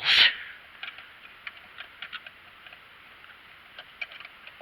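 Light, irregular plastic clicks and taps of a toy train car being fitted back onto plastic track.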